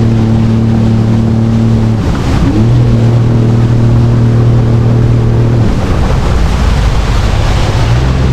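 Jet ski engine running under throttle with water and wind rushing past. The engine note dips and climbs back about two seconds in, eases off into the water noise around six seconds, and picks up again near the end.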